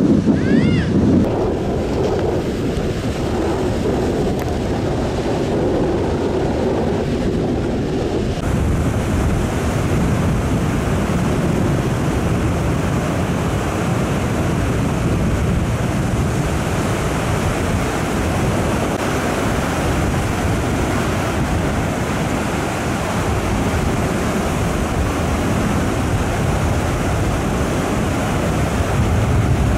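Rough surf breaking and rushing on a beach in a strong wind, with wind buffeting the microphone, as a steady loud wash of noise. The sound grows brighter and hissier about eight seconds in.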